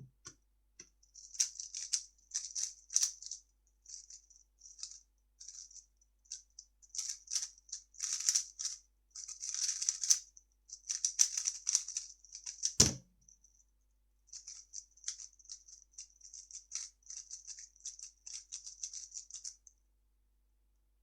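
3x3 speedcube being turned fast: rapid plastic clicking of the layers in quick bursts. A single hard thump comes about 13 s in, then another run of turning after a short pause.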